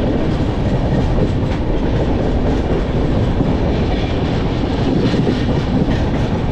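Passenger train moving along the track: a steady rumble of carriages and wheels on the rails, with faint irregular clicks and clatter.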